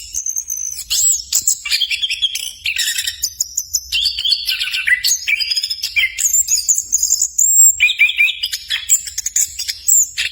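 Chestnut-capped thrush (anis kembang) singing a fast, unbroken, varied song of high whistles, chirps and trills.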